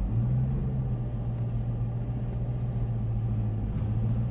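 Dodge Challenger Hellcat's supercharged 6.2-litre V8 running with a steady low hum at idle as the car creeps forward, heard from inside the cabin.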